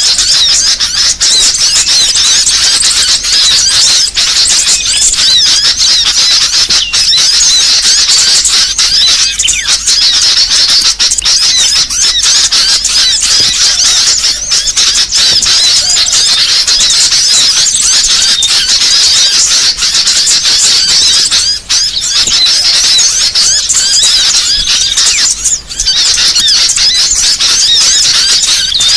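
Bird-lure recording of many small songbirds chirping and twittering at once, a dense, noisy chorus of high-pitched calls that keeps going without a break.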